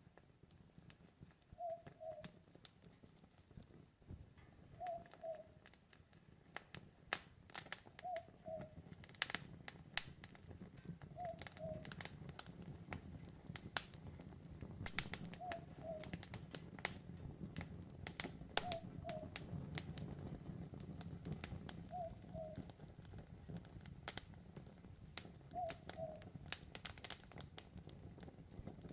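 An owl hooting in short two-note calls, about every three seconds, eight times over. A wood campfire crackles with sharp pops, which get thicker after the first several seconds, over a low steady rustle of the flames.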